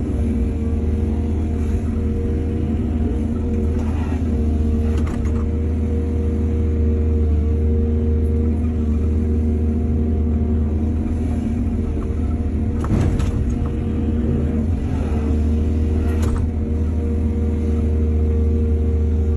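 Excavator's diesel engine running steadily under load, with a few short knocks and scrapes, about four and five seconds in and again near thirteen and sixteen seconds, as the bucket works.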